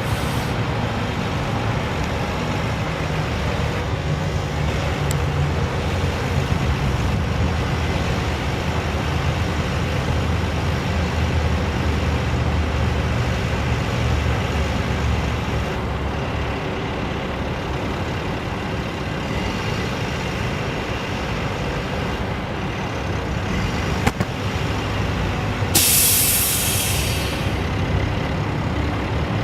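International DT466 diesel engine of a bucket truck running steadily. Near the end a click is followed by a short burst of compressed air hissing out.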